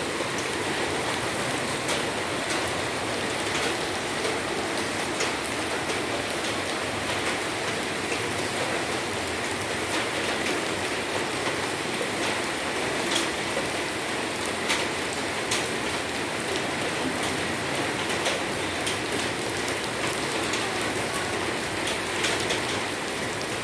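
Steady rain falling, with many scattered sharp taps of single drops hitting a surface close by.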